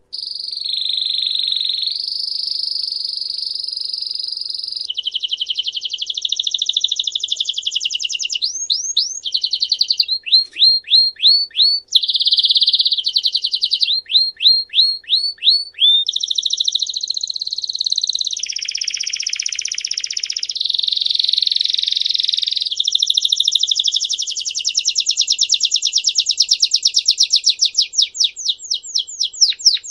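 A songbird singing one long, unbroken song that starts suddenly. It alternates sustained rolling trills with quick runs of sharply falling whistled notes.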